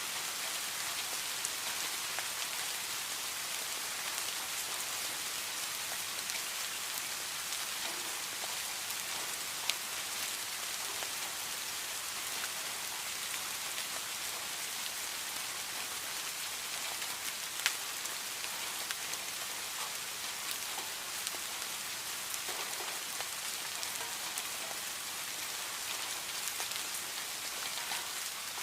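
Steady rain falling, an even hiss with scattered individual drops ticking on a surface, two of them standing out sharply about ten seconds in and again past seventeen seconds.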